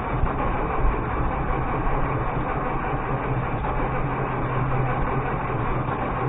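Galion 503 grader's UD-236 diesel engine running steadily at mid throttle after a hard cold start.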